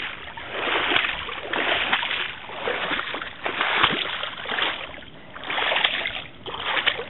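Wading through a deep, muddy puddle, water sloshing and splashing in repeated surges about once a second.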